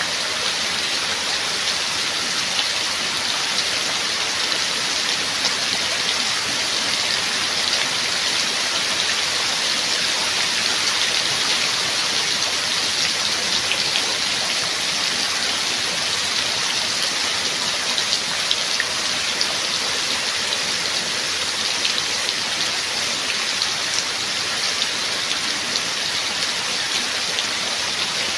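Steady heavy rain falling, a dense even hiss with many individual drops pattering on a surface.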